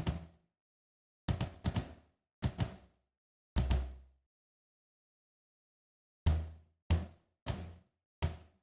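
Sharp clicks from a computer being worked by hand: nine separate clicks, each a quick double snap, spaced unevenly, with a pause of about two seconds in the middle.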